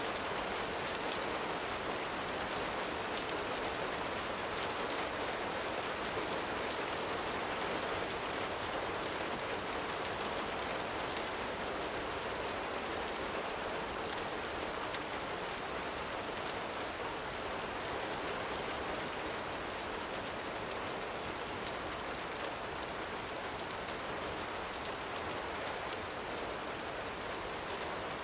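Gentle rain falling steadily, with faint scattered crackles of a campfire through it.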